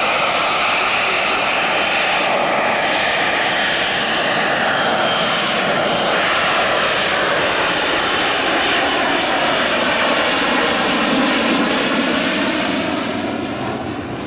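Loud aircraft engine noise, steady for most of the stretch, with its pitch sliding down in the second half and the level dropping a little near the end.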